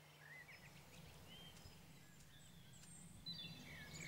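Faint, scattered chirps and short calls of small birds, a little busier near the end, over a quiet background hiss.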